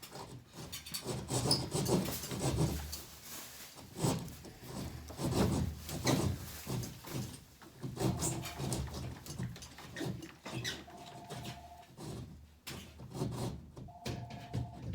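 Irregular rasping strokes of a hand saw cutting through ceiling board. A short pulsing beep sounds three times in the second half.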